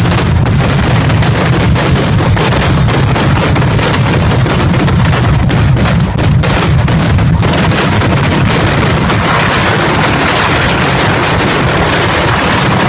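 A dense, continuous barrage of firecrackers: rapid overlapping bangs and crackling over a deep rumble, with no pause between them.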